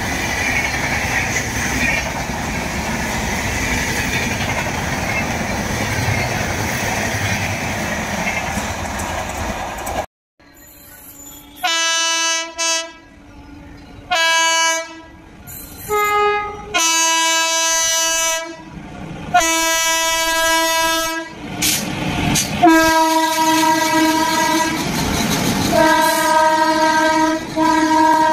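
Passenger coaches running past at speed, a steady rushing rumble of wheels and bodies. After a sudden cut, an approaching Indian Railways electric locomotive sounds its horn in a series of long blasts, some broken into shorter toots, with the rumble of the oncoming train building under them near the end.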